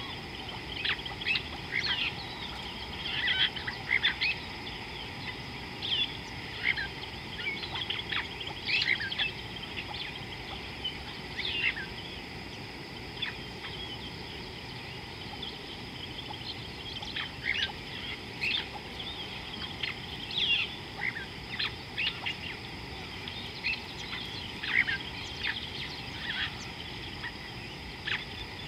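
Birds chirping and calling: many short, high calls come and go, sparser in the middle, over a steady low hiss.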